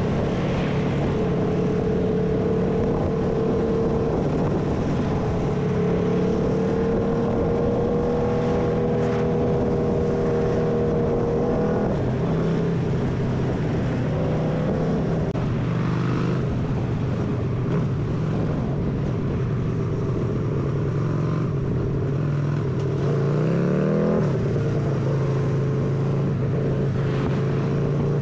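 Harley-Davidson V-twin motorcycle engine running steadily at road speed, with wind rushing past. About a third of the way in the engine note steps down, and toward the end it revs up in a rising sweep, then settles back to a steady note.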